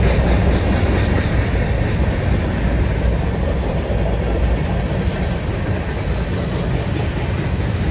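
Freight train rolling past, a steady loud rumble of steel wheels on the rails.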